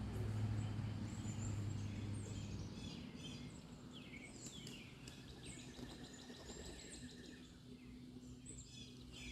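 Wild songbirds chirping and calling with many short, quick falling notes, over a low steady hum that fades after the first few seconds.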